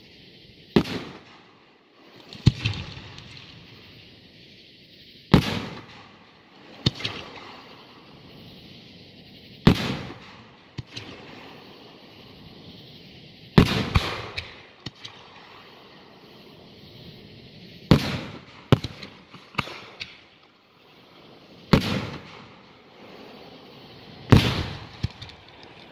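Fireworks show: aerial shells going off with sharp bangs every two to four seconds, some in quick pairs, each trailing off in a rolling echo.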